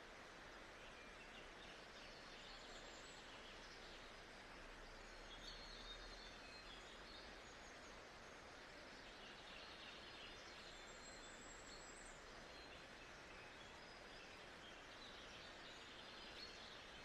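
Faint nature-sounds ambience: a steady soft hiss with faint high bird calls coming and going a few times.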